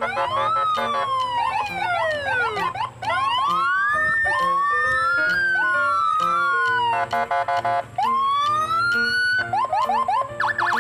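Background music overlaid with electronic siren-like sound effects: repeated rising and falling pitch glides, with a fast warbling passage around seven seconds in, over steady bass notes.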